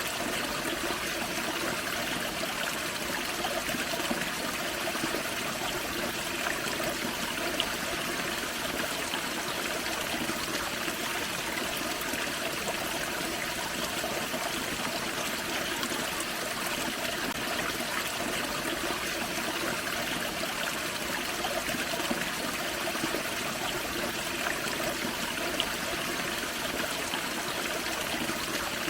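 Small waterfall on a forest creek: water splashing and trickling over rocks in a steady, unbroken rush.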